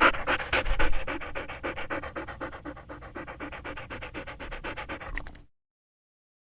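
A dog panting, about six or seven quick breaths a second, loudest at first and easing off a little, then cutting off suddenly about five and a half seconds in.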